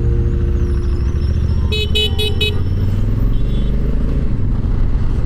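Motorcycle engine running steadily while riding, with a vehicle horn tooting four short times about two seconds in.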